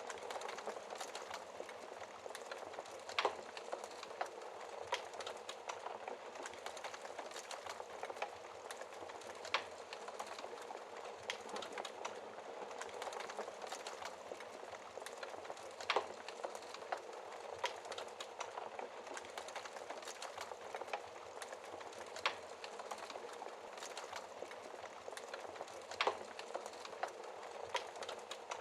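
Wood fire burning in a fireplace, heard through its glass door: a steady hiss with frequent small crackles and a few sharp, louder pops.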